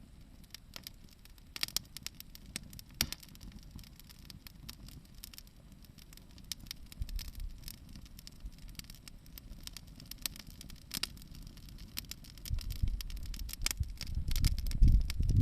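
Wood bonfire crackling, with scattered sharp pops from the burning wood. A low rumble builds up over the last few seconds.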